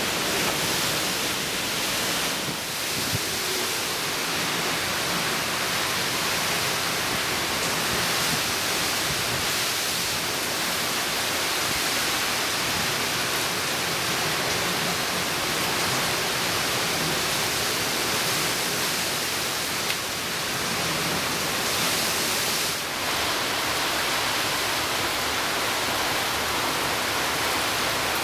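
Heavy hurricane rain pouring down: a dense, even hiss with no letup.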